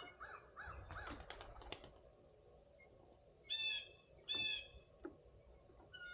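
Backyard birds calling, with blue jays among them. There are a few short repeated whistled notes at first, then a quick run of clicks, then two loud harsh calls about a second apart.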